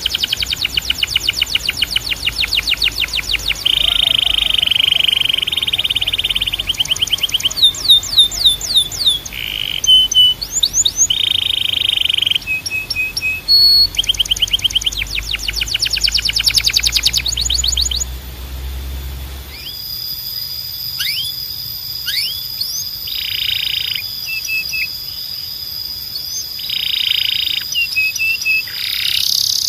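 Canary singing a long, varied song: fast trills of rapidly repeated notes, buzzy rolling phrases and falling whistled notes. About two-thirds of the way through the song changes to short rolls over a long, steady high whistle.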